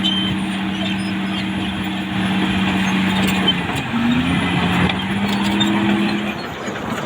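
Caterpillar D6R XL bulldozer running, with a steady engine whine that shifts in pitch about four seconds in and drops away near the end.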